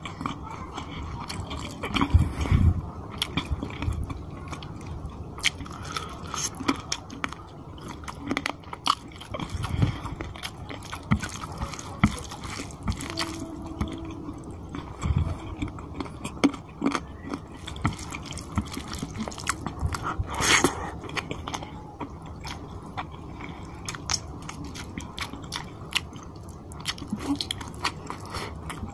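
Close-miked wet chewing with many small clicks as a man eats chicken curry and rice by hand.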